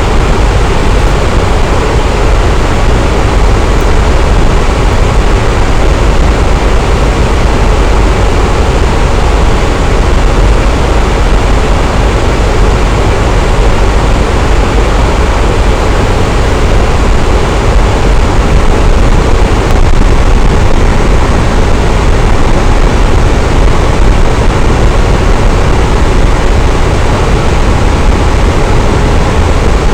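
Electric fan running at a steady speed: a constant, even rush of air, heaviest in the low rumble, with no change in speed or pitch.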